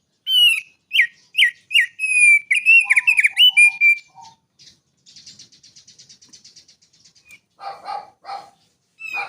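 Small songbird singing a varied song: a quick run of loud, sharply down-slurred whistled notes, then a fast, high, dry rattling trill, then a few lower notes near the end.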